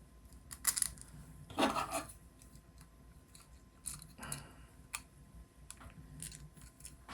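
Small hardware being handled: irregular clicks and short rattles of nuts and bolts against the robot's 3D-printed plastic parts, the loudest rattle about two seconds in.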